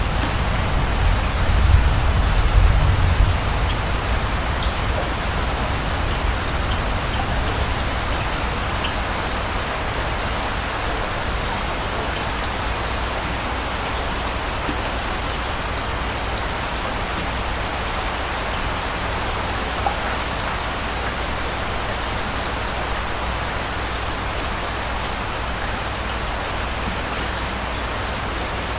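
Steady rain falling, with a low rumble of distant thunder fading away in the first few seconds.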